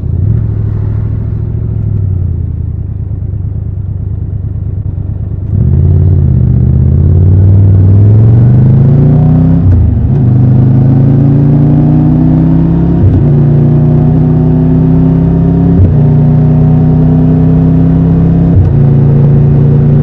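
Triumph Tiger 1200 Rally Pro's inline three-cylinder engine running low and steady, then opening up about five seconds in and pulling hard, the engine note rising and dropping briefly at each of four upshifts, about every three seconds.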